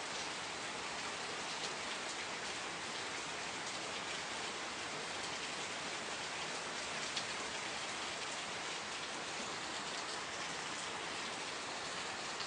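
Steady rain falling, with a few single louder drops standing out now and then, most clearly about seven seconds in.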